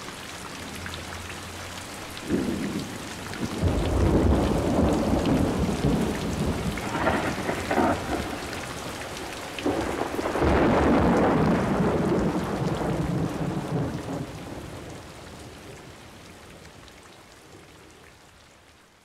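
Steady rain with two long peals of thunder rolling and rumbling, the first starting about two seconds in and the second about ten seconds in, each several seconds long. The storm sound then fades out gradually near the end.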